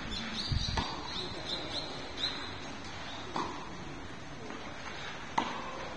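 A small bird chirping a quick run of short, high, falling calls in the first two seconds or so. Three sharp knocks, the loudest about five seconds in, and faint voices.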